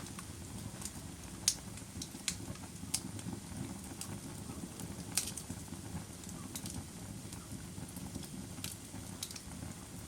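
Wood fire crackling: irregular sharp pops and snaps, about eight of them, over a steady low rumble of burning.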